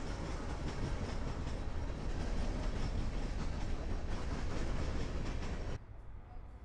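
CSX freight train passing close by: diesel locomotives rumbling past, then covered hopper cars rolling by with their wheels clicking over the rail joints. The train sound cuts off abruptly near the end, leaving a much quieter background.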